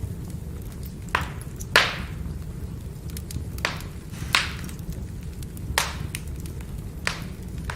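Firewood burning: a steady low rumble with frequent small crackles and six sharp pops from the logs, the loudest about two seconds in.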